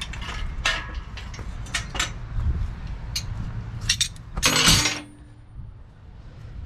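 Metal clinking and knocking of tools or parts being handled, with a louder clatter about four and a half seconds in, over a low steady rumble.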